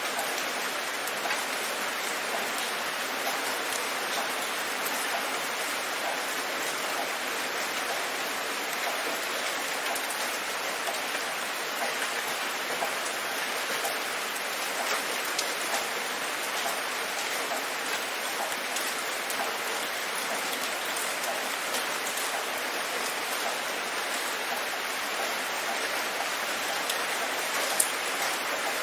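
Steady rain: an even hiss of falling drops, dotted with the ticks of single drops, one of them sharper near the end.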